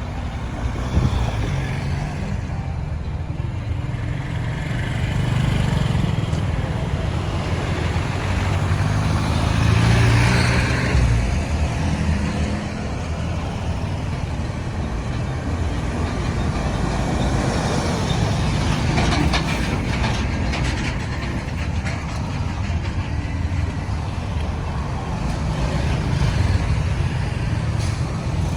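Busy road traffic: a steady low rumble of vehicle engines and tyre noise from cars, trucks and motorbikes. It swells louder twice as vehicles pass, with a brief patch of rattling clicks past the middle.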